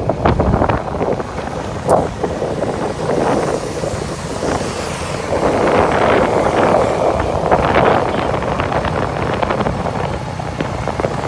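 Wind buffeting the microphone over steady road and vehicle noise during a ride, rising and falling in strength.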